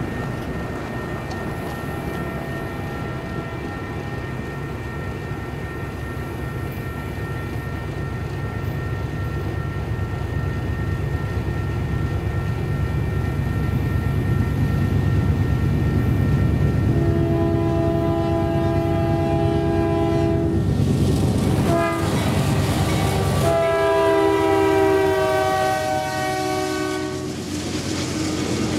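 Union Pacific diesel locomotives on a loaded grain train approaching with a low rumble that grows steadily louder, then the lead locomotive's air horn sounding a long blast, a short one, and another long one as it passes, the last dropping slightly in pitch. The trailing locomotives' engines and the wheels on the rail follow near the end.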